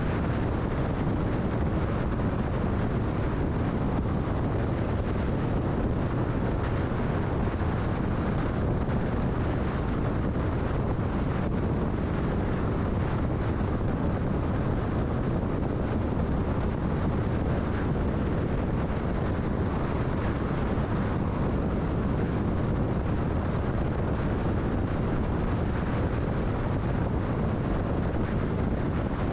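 Steady road and wind noise of a car cruising at freeway speed, heaviest in the low end and unchanging throughout.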